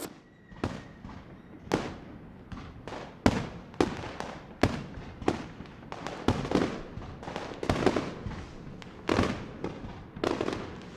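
Fireworks going off: an irregular run of sharp bangs, about two a second, each trailing off briefly.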